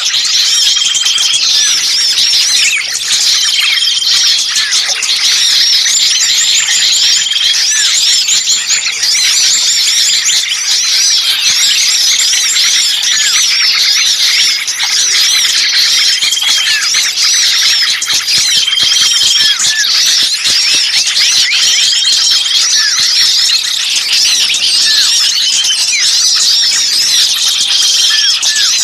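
Dense chorus of many small songbirds giving agitated, overlapping high chirps and squeaks, the noisy distress-type calling used as a lure to attract small birds. A flat whistled note recurs about every four seconds through the chorus.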